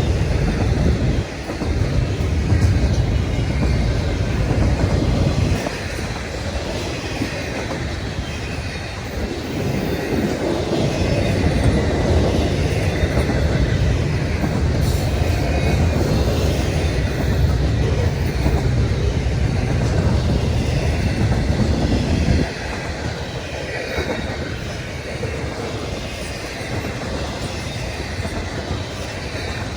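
Freight train rolling past, a continuous heavy rumble of wheels on rail that swells and eases, falling back somewhat about 22 seconds in.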